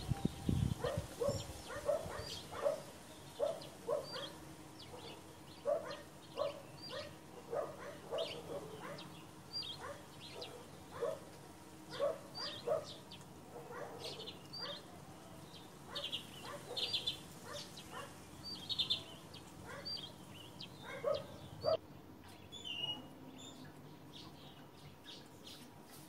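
Small garden birds chirping over and over, short chirps about once or twice a second, growing sparser in the last few seconds.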